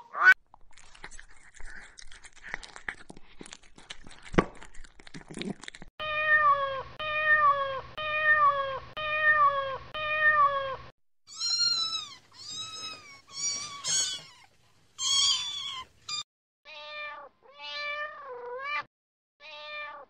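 A cat eating from a bowl, small wet clicks and smacks, for about six seconds. Then a run of cat meows: six identical, evenly spaced meows about one a second, then several higher-pitched meows, then a few quieter meows that dip in pitch.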